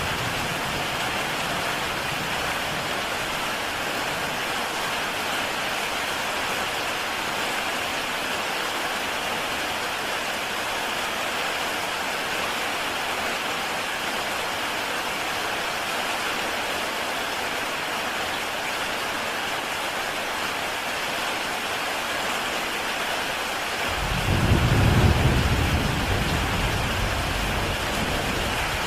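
Heavy rain falling on a tile roof, a steady, even hiss. About 24 seconds in, a low rumble of thunder swells up and slowly fades.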